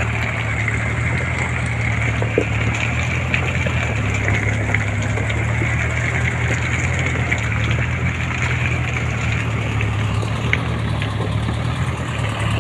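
Truck engine in a Land Cruiser-type 4WD hardtop, running steadily at low revs with an even drone and no revving.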